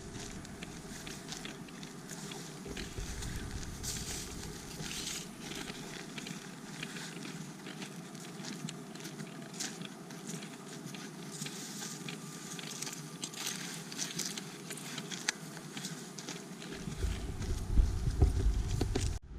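A hiker's footsteps on a wooded trail: irregular rustling and clicking steps over a steady outdoor hiss, with a low rumble coming in near the end.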